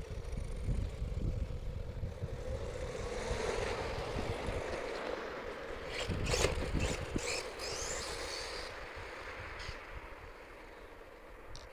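HPI Savage XS Flux mini monster truck's brushless electric motor and geartrain whining as the RC truck drives on the street, with rising whines as it speeds up, loudest a little past halfway through.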